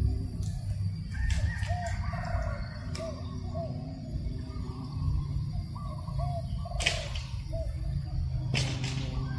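Birds calling, one repeating a short, low, arched note about twice a second, over a steady low rumble of breeze on the microphone. A few brief noisy bursts are heard, the strongest about seven seconds in and near the end.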